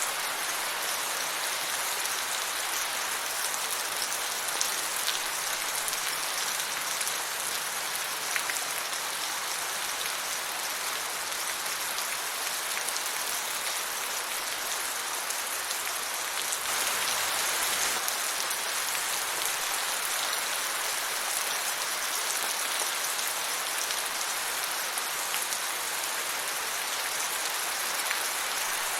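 Steady rain falling, an even hiss of many drops with a few sharper drip ticks, swelling slightly louder for a moment just past the middle.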